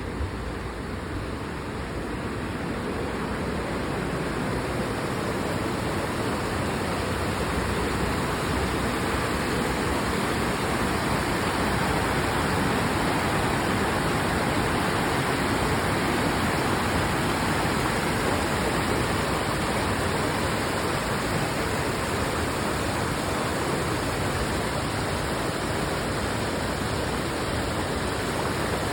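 Waterfall cascading steadily, a continuous rush of falling water that grows louder over the first several seconds and then holds.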